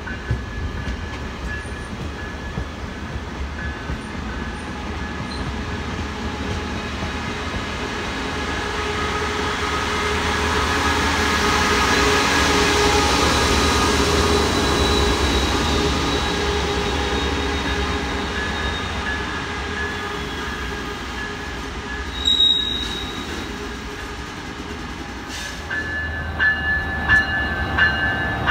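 Coaster commuter train rolling past slowly as it arrives at a station: bilevel coaches go by, then the diesel locomotive pushing at the rear, loudest about halfway through, with a faint high wheel squeal. Near the end several sharp clanks are heard.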